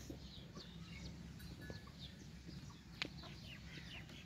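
Faint bird calls in a farmyard: many short chirps, each falling in pitch, scattered throughout, with a single sharp click about three seconds in.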